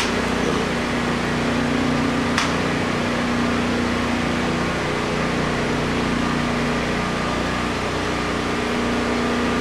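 Steady machine hum, like a motor or fan running, with a single sharp click about two and a half seconds in.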